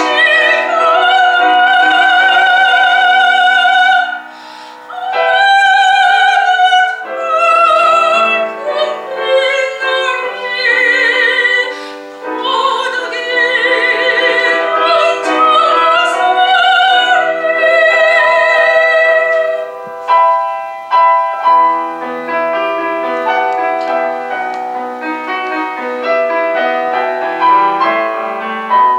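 Soprano singing a Korean art song with wide vibrato, accompanied by piano. About two-thirds of the way in, the voice stops and the piano plays on alone.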